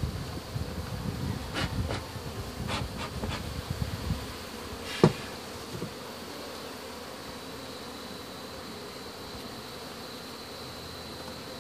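Honey bees buzzing steadily around a hive being opened up for removal. There are knocks and rumbling handling noises over the first four seconds, and one sharp knock about five seconds in.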